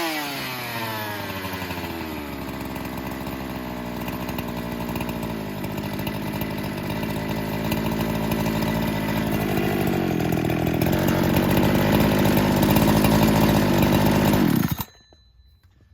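Husqvarna 372XP two-stroke chainsaw on its first startup, coming down off a rev to idle and idling with slight rises and falls in speed, then shut off suddenly near the end. The saw is not yet tuned.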